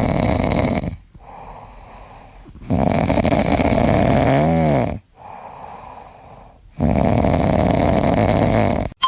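A sleeping pet snoring loudly: three rasping snores about four seconds apart, with quieter breaths between them. Midway through the second snore there is a brief whistling rise and fall in pitch.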